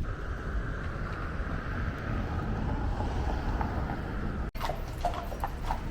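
Steady street ambience with low wind rumble on the microphone, then after a sudden break about four and a half seconds in, the clip-clop of a horse's hooves on paving.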